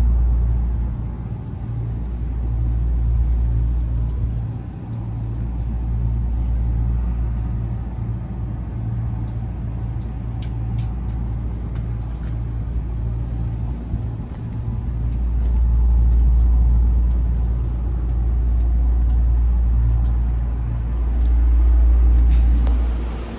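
Low running rumble of a Meitetsu 2000-series 'Blue μSKY' limited express, heard inside the passenger cabin. It swells and eases in loudness, with a few faint clicks about ten seconds in.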